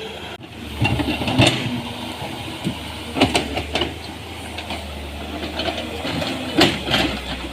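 CAT 320D excavator working: a steady machine hum under repeated scrapes and knocks of the bucket biting into and dumping soil, loudest about a second in, around three seconds in and near the end.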